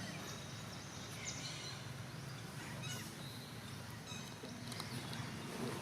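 Short high-pitched chirping calls, including a couple of quick trills, over a steady outdoor background.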